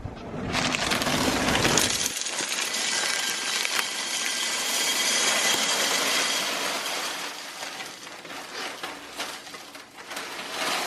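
Small hard snack pieces poured into a container: a dense rattling pour of many little clicks that starts about half a second in and thins out near the end.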